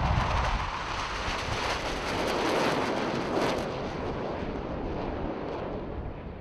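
Airbus A350 XWB's Rolls-Royce Trent XWB turbofans roaring past low in a flypast, swelling and then fading away, with wind buffeting the microphone.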